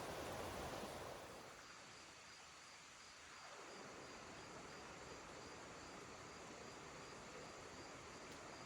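Steady rushing of a creek fades out about a second in, leaving faint, evenly pulsing chirps of crickets.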